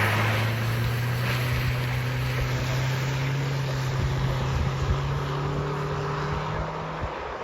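A vehicle engine running at a steady pitch that slowly fades away, over a broad hiss.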